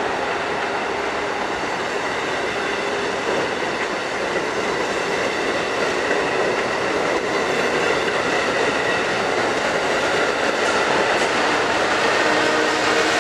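Amtrak Acela Express electric trainset passing close by, its coaches making a steady rolling noise of wheels on the rails.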